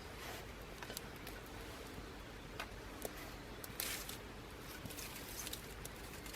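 Small wood fire in a homemade aluminium wood stove, crackling with irregular sharp pops over a low steady hiss; one louder crackle about four seconds in.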